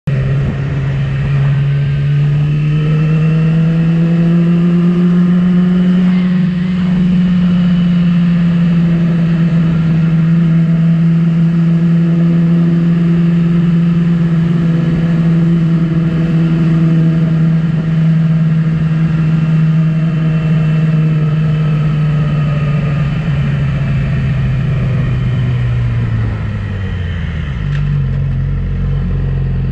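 600 cc inline-four sport bike engine running at high, steady revs under way, climbing a little in the first few seconds. Near the end the revs fall away and settle at a lower, steady pitch.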